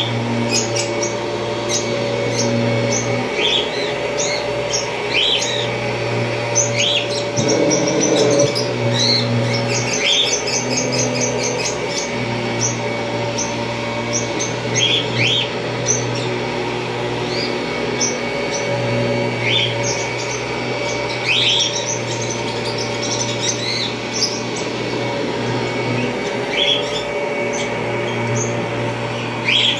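1991 Kirby Generation 3 upright vacuum cleaner's motor running at a steady hum, with short rising chirps every second or two over it.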